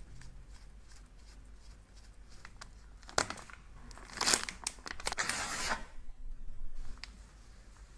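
Crinkling and tearing sounds with sharp scratchy strokes, loudest in a stretch from about three to six seconds in, over faint scratching before and after.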